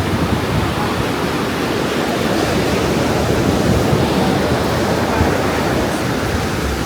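Ocean surf washing in steadily on a sandy beach, mixed with wind on the microphone.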